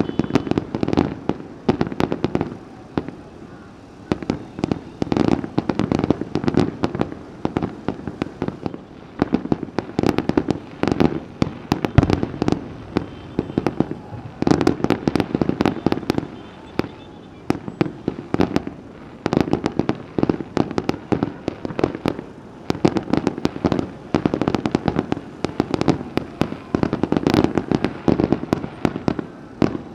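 New Year fireworks display going off in rapid volleys of bangs and crackles, with short lulls between bursts.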